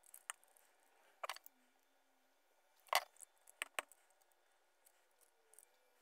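A few light, scattered clicks and taps of small plastic parts being handled, the loudest about three seconds in, over an otherwise quiet background.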